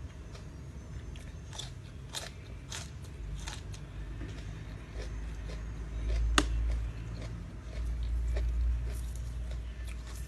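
A person chewing and crunching a mouthful of crispy squid and rice-noodle salad close to the microphone, with scattered sharp clicks and a deep rumble through the middle.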